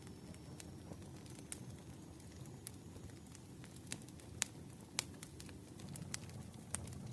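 Firewood burning in a campfire, crackling with irregular sharp pops and snaps over a low steady rumble, a few louder pops past the middle.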